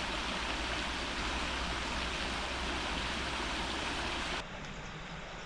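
River water running steadily in an even rush. About four seconds in it changes abruptly to a quieter, duller rush.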